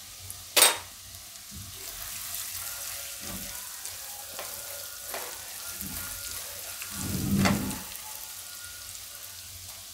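Chopped onion, garlic and spices sizzling in hot oil in a wok while a silicone spatula stirs turmeric through them. A sharp tap comes about half a second in, and a louder stretch of stirring around seven seconds in.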